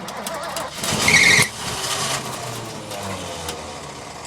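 Ford F350's carbureted engine cranking and briefly firing with a loud burst and a short high squeal about a second in, then fading as it fails to keep running: a hard start on a truck left sitting for a year, with fuel being fed by hand into the carburetor.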